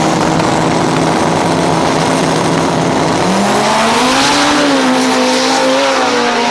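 Loud race car engines running at a drag strip. About halfway in, one engine note rises and then holds high.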